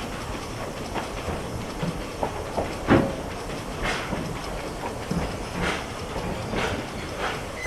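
Narrow-gauge steam train running, its exhaust chuffing about once a second over the clicking and rattling of wheels on the rail joints, with a sharper knock about three seconds in.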